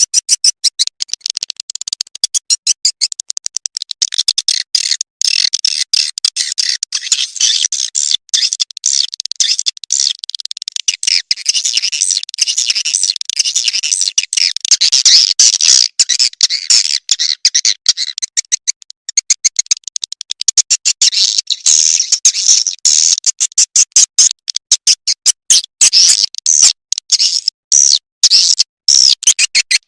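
Recorded swiftlet call sound, the lure track played to attract swiftlets to a nesting house: loud, dense, rapid high-pitched chirping and twittering that goes on with brief gaps.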